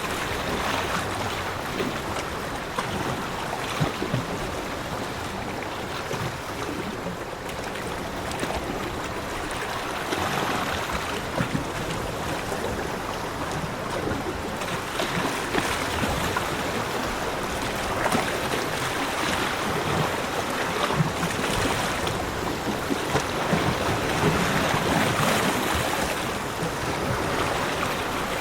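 Ocean waves washing onto a beach, a steady rushing wash that swells and eases in slow surges.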